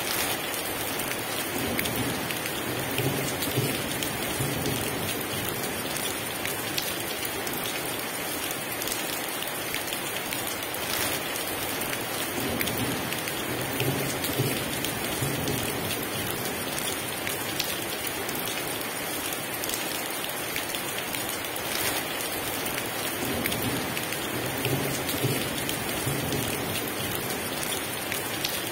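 Heavy rain pouring steadily, with scattered sharp drop hits. Low thunder rumbles three times, about ten seconds apart.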